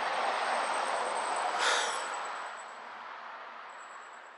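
A vehicle going past: a steady rushing noise that swells to its loudest a little under two seconds in and then fades away.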